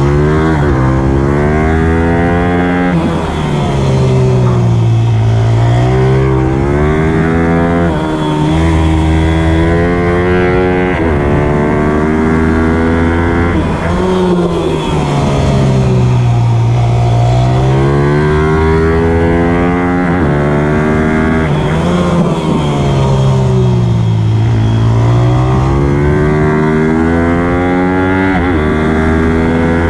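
Ayrton Xtrema pitbike's single-cylinder engine being ridden hard, revving up and down without pause. Its pitch drops deeply three times and climbs back each time.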